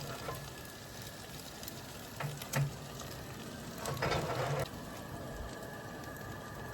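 Potatoes frying in a skillet, a steady sizzle and crackle. Two light knocks come between two and three seconds in, and a brief louder rustle about four seconds in.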